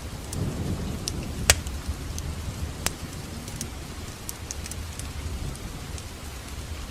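Wood fire crackling in a fireplace: a low rumble of burning with scattered small crackles, and two sharp pops about one and a half and three seconds in.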